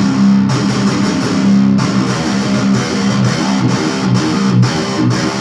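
Electric guitar playing a heavy, low metal riff, with sustained low notes that give way to an even chugging rhythm about two seconds in.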